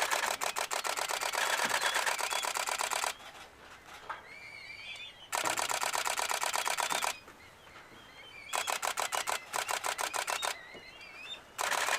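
Nikon DSLR shutter firing in rapid continuous bursts, four bursts of evenly spaced clicks a couple of seconds each, the camera tracking birds in flight.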